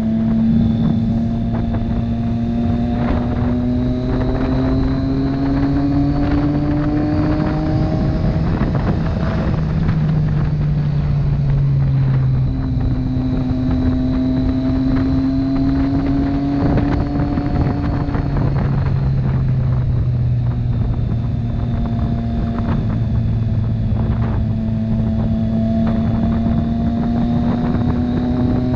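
Motorcycle engine running at road speed, its note climbing slowly and dropping back twice, with wind rushing over the microphone.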